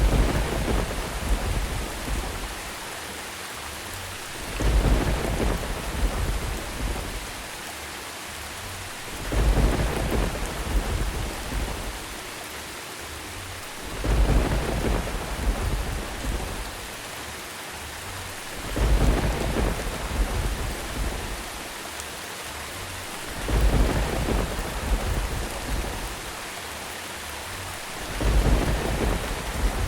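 Steady rain with seven rumbles of thunder, evenly spaced about every four and a half seconds. Each rumble swells up quickly and fades over a couple of seconds.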